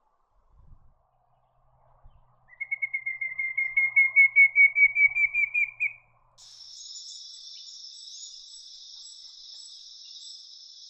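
Pallid cuckoo calling: a fast run of about twenty short whistled notes that climb gradually in pitch over three to four seconds. It is followed by a steady high insect drone with faint regular ticks.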